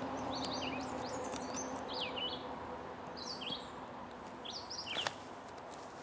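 Small songbirds chirping: quick, short, sweeping chirps in clusters every second or so. There is a faint low hum in the first couple of seconds and a sharp rustling click about five seconds in.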